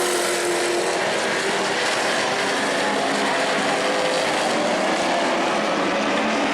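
Several Pro Truck race engines running hard around the short asphalt oval, a steady dense engine drone with one engine's pitch falling off in the first second.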